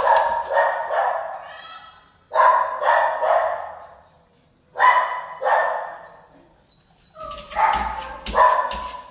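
A dog barking repeatedly, about ten loud barks in groups of two or three with short pauses between.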